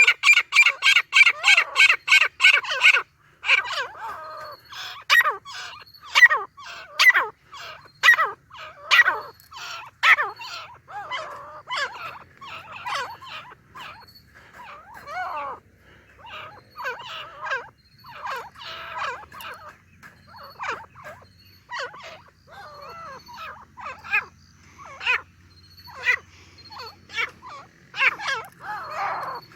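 Grey francolin (teetar) calling: a fast run of sharp, harsh notes for the first three seconds, then repeated calls at irregular spacing, about one or two a second.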